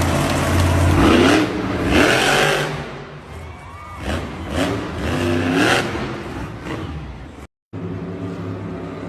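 Off-road truck engines running and revving, with pitch rising in surges; the sound cuts out abruptly near the end and another engine is heard running steadily.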